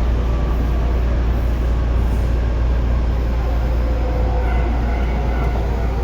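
Tobu 9050 series electric train running at speed: a steady, loud rumble of wheels on rail, with faint steady tones from the traction motors.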